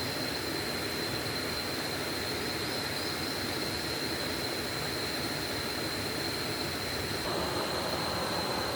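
Rain-swollen forest stream rushing, a steady roar of water with a thin, steady high whine over it. About seven seconds in, the water noise grows a little louder and fuller.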